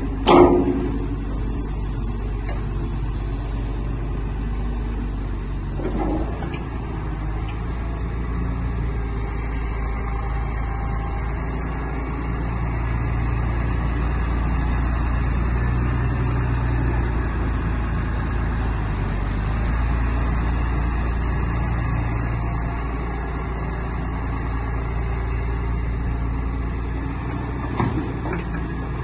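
Six-cylinder Deutz BF6M1012E diesel of an O&K MH 5.5 wheeled excavator running steadily, its note swelling and easing with load. A sharp clank about half a second in, and lighter knocks later.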